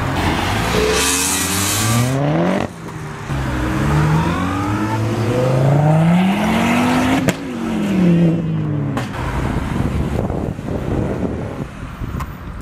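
Sports cars, among them a Porsche Cayman and a Ford Focus, accelerating hard away one after another, engines revving up in rising sweeps and dropping in pitch as each goes past. The sound breaks off abruptly a couple of times as one car gives way to the next.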